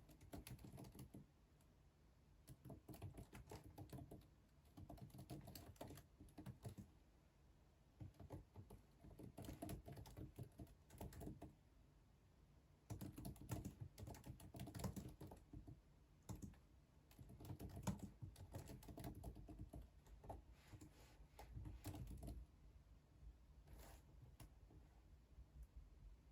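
Quiet computer keyboard typing: runs of rapid keystrokes lasting a second or three, broken by short pauses, thinning out near the end.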